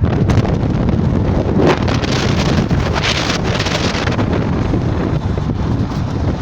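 Wind buffeting the microphone: a loud, steady rumble with hiss that swells briefly a couple of seconds in.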